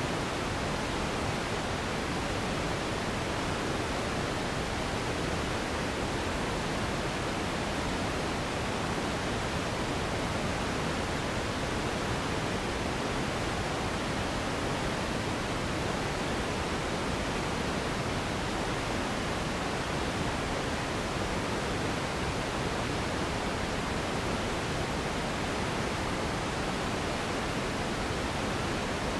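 Steady pink noise: an even, unbroken rushing hiss, fuller in the lows than white noise, that does not change.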